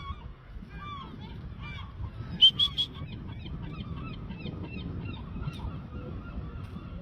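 Birds calling over and over in a honking, goose-like way, with a louder run of three sharp calls about two and a half seconds in.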